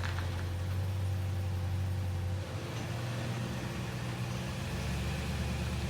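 A motor vehicle's engine idling with a steady low hum. Its pitch changes about two and a half seconds in.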